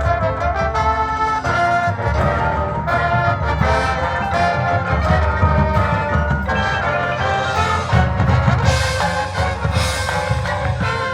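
Drum corps brass line playing loud, full chords over a pounding percussion section, with a cymbal crash about nine seconds in.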